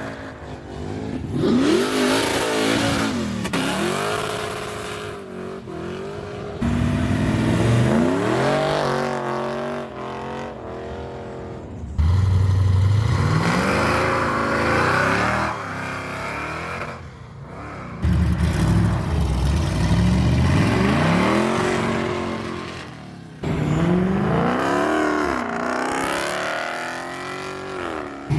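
Car engines revving and accelerating hard in a run of short clips, each engine note climbing in pitch, dropping back at a gear change and climbing again.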